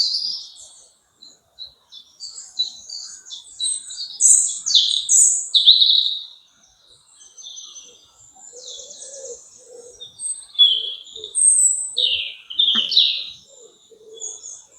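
Several songbirds chirping and trilling high, with a dove's soft repeated cooing underneath in the second half.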